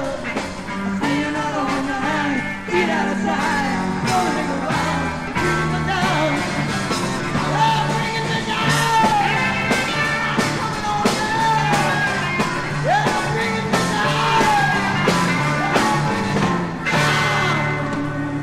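A rock band plays a full-band stretch of the song, with drums, bass and a high vocal or lead line sliding in pitch, and the singing tagged throughout.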